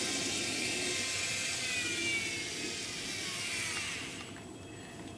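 Model train locomotive's small electric motor and gears whirring as the power pack's speed wheel is turned, the whine rising and falling in pitch and dying away about four seconds in.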